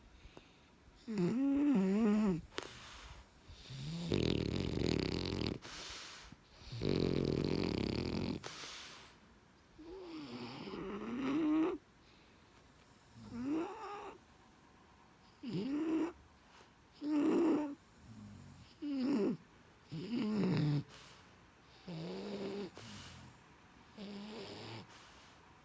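A sleeping French bulldog dreaming: two long raspy snores, and a run of short wavering whimpers, one every second or two.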